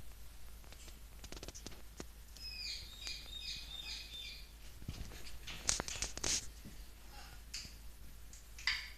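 Parrot giving a quick run of about five short, falling chirps, with scattered light taps and clicks around them; the loudest cluster of taps comes about six seconds in.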